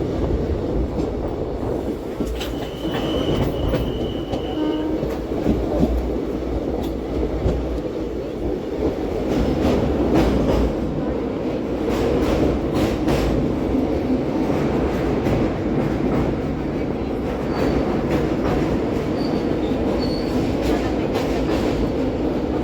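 Indian Railways passenger coach of an express train running at speed, heard from inside: a steady rumble with the repeated clicks of wheels over rail joints. A thin high tone sounds for about two seconds, a couple of seconds in.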